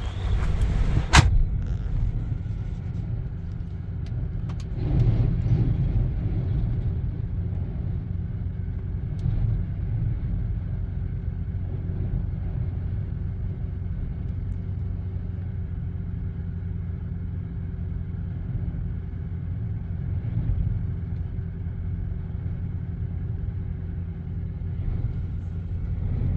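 A sharp knock about a second in, like a door shutting, then a steady, muffled low rumble with a faint steady hum. It sounds like the inside of a vehicle with its engine running while strong wind buffets it.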